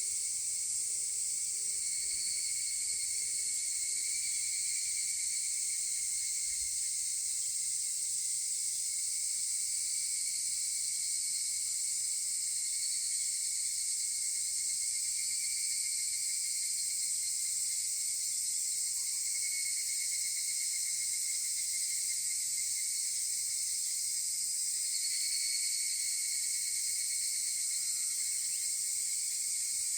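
Chorus of higurashi cicadas (Tanna japonensis) calling. A steady high-pitched insect hiss runs throughout, and trilling calls swell and fade several times.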